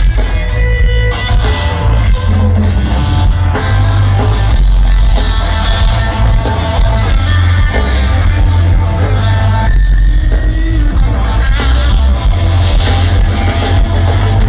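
Live rock band playing loudly: electric guitar, drum kit and heavy bass.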